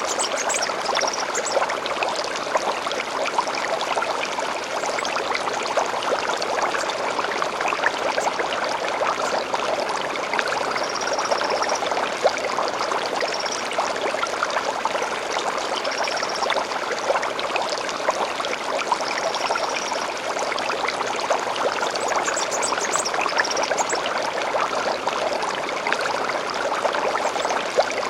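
Stream water flowing and splashing steadily, with short high bird chirps every few seconds.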